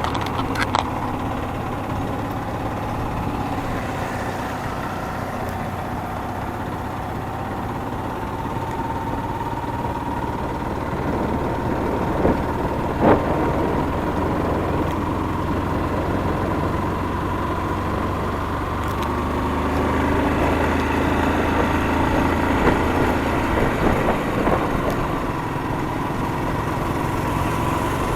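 Motorcycle engine running steadily while being ridden, its pitch rising slowly, with a couple of sharp knocks about halfway through.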